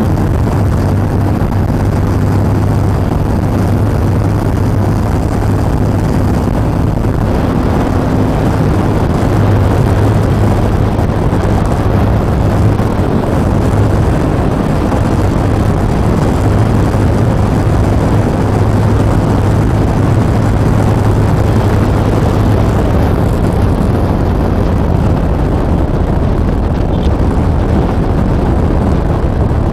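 Yamaha XV950R's air-cooled V-twin running steadily at highway cruising speed, under a steady rush of wind and road noise.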